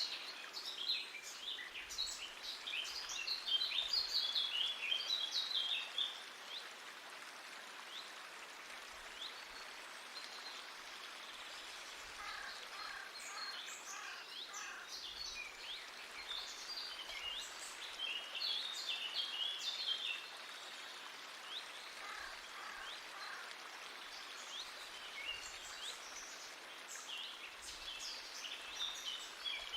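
Small birds chirping and twittering in busy bursts over a steady hiss of running creek water.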